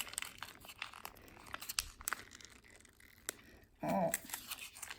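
Plastic slime packet crinkling and crackling as it is squeezed and kneaded to force out stiff butter slime. A short voice sound comes about four seconds in.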